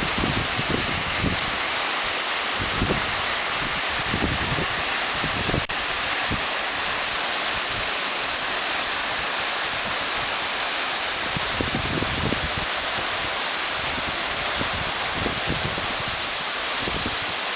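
Waterfall pouring: a steady, full hiss of falling water, with short low rumbles coming and going every second or two.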